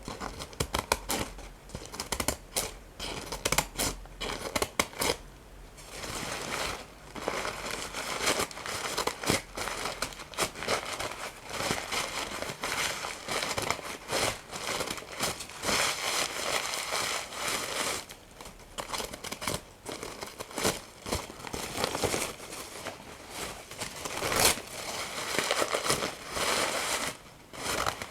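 Paper handled close to the microphone: sharp snips at first, then a long stretch of crumpling and crinkling with some tearing.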